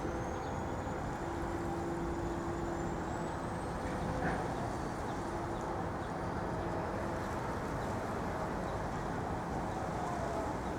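Steady outdoor city background: a distant traffic hum with a faint engine drone, and a slight swell about four seconds in.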